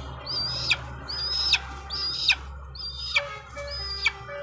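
Young eagle calling: a run of short, high, thin chirps, about five of them, each a quick upward sweep that levels off into a brief whistle.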